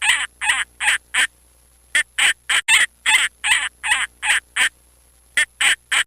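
Falcon's repeated kek-kek call: fast runs of short, rasping notes about three a second, in three bouts split by brief pauses.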